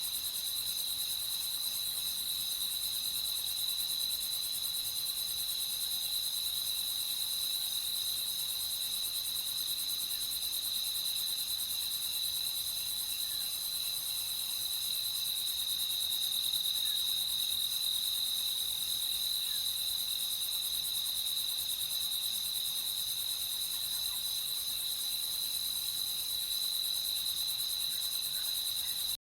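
A chorus of crickets chirping in a steady, continuous high trill, with a faint hiss above it.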